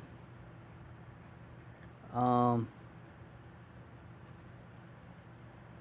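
Steady, high-pitched drone of an insect chorus, even and unbroken, with one short voiced sound a little after two seconds in.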